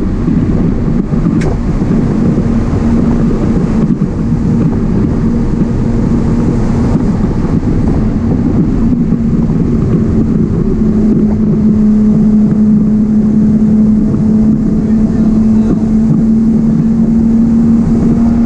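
BMW 328i's 2.8-litre straight-six engine pulling at a steady pitch, heard loud from inside the cabin over tyre and wind noise, its note dipping slightly a couple of seconds in and then holding.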